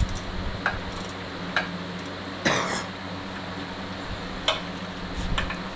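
Scattered sharp metal clinks of hand tools against the engine, with one short cough-like burst about two and a half seconds in, over a steady hum.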